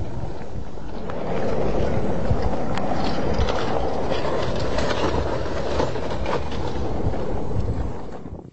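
Volcanic eruption: a loud, steady rushing noise full of sharp crackles. It grows louder about a second in, then fades and cuts off abruptly at the end.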